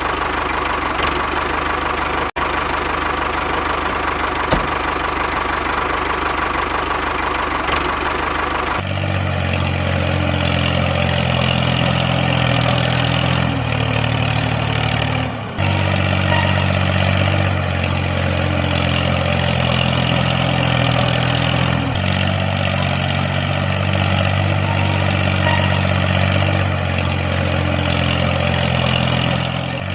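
Engine of a homemade tractor running steadily, its sound changing abruptly about a third of the way in and again a few times after.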